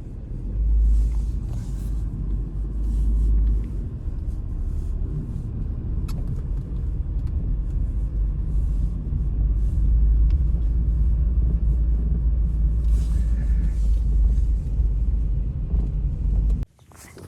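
Blizzard wind buffeting the microphone: a heavy, fluctuating low rumble with no engine tone. It cuts off abruptly near the end.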